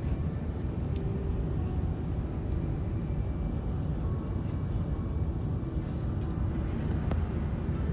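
Steady low rumble inside an Airbus A380's cabin while the aircraft lands, with faint steady tones above the roar and two faint clicks, about a second in and near the end.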